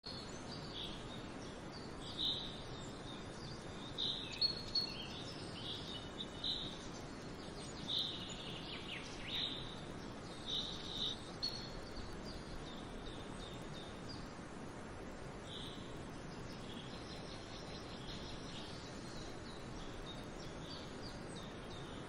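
Outdoor nature ambience: birds chirping in short, high calls, thickest in the first half, over a steady background hiss.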